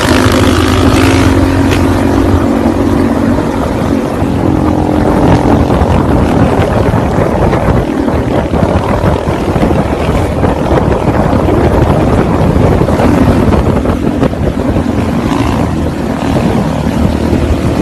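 Motorcycle engine running under way, with a loud continuous rush of wind and road noise. A wavering engine tone stands out over the first few seconds.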